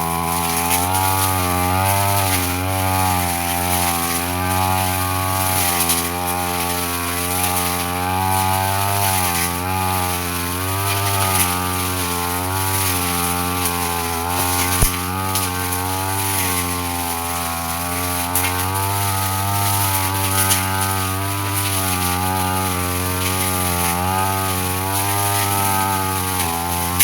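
Brush cutter engine running under load while cutting grass and undergrowth, its speed wavering up and down throughout, with one sharp tick about halfway through.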